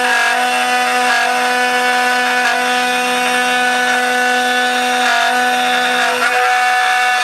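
CNC router spindle running steadily with a constant whine while its bit cuts through laminated Western Australian karri, cutting out the outline of a banjolele neck.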